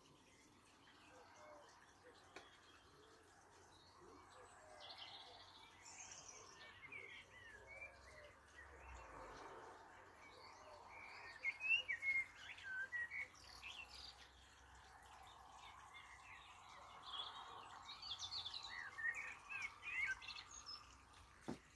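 Small birds chirping, with quick high chirps that cluster about halfway through and again near the end, over a faint steady background hum.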